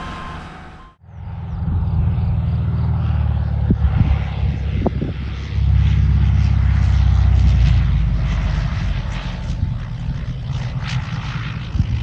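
Airplane engines running loud with a deep steady rumble, growing louder about five and a half seconds in. It starts after a short gap of silence about a second in.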